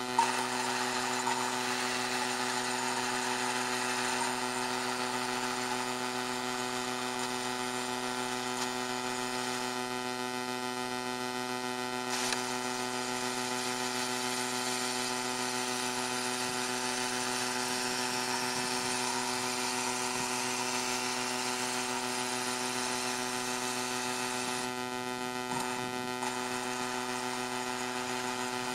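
The small tractor's motor and drive running steadily through a test drive, a constant whine at one pitch over a hiss, with a brief click about twelve seconds in.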